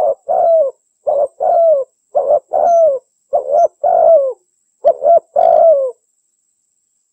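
Female spotted dove (derkuku) cooing: a quick string of short coos in twos and threes, each dropping in pitch at the end, ceasing about six seconds in. It is the female's call that bird keepers use to lure males.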